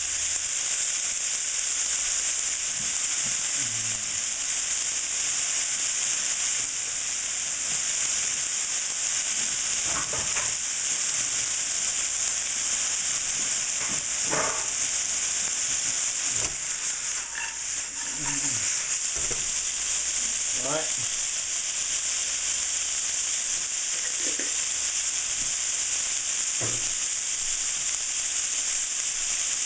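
Chicken pieces, water chestnuts and cashews sizzling steadily in hot oil in a frying pan, with a few short knocks and scrapes now and then as the food is stirred.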